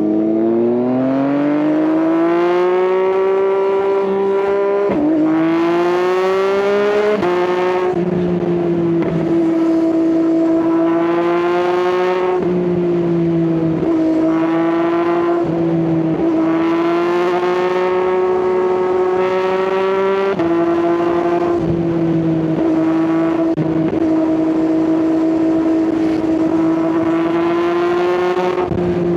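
Yamaha XSR900 inline-three with an Akrapovič exhaust, heard from the rider's seat. It revs up through the gears with quick shifts about 5 and 7 seconds in, then cruises at fairly steady revs with gentle rises and dips as the throttle rolls on and off.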